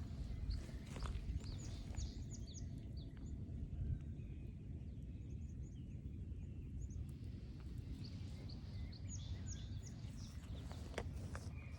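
Small birds calling in quick groups of short, high, falling notes, a few times over a steady low rumble, with an occasional footstep on the trail.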